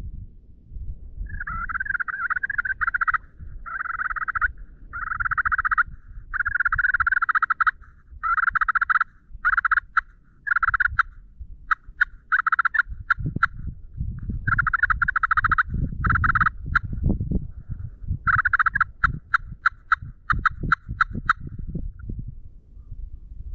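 Wild turkeys gobbling again and again, a string of rattling calls close on one another, some cut short into sharp clipped notes. Low thumping noise runs under the second half.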